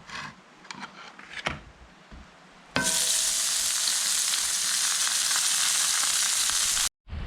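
Chopped onions frying in hot bacon grease in a pan: a few light clinks, then a loud, steady sizzle that starts abruptly about three seconds in and cuts off near the end.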